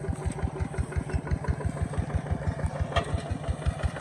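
Kubota ZT140 walking tractor's single-cylinder diesel engine running at a steady low speed, with an even chugging beat of about six to seven pulses a second.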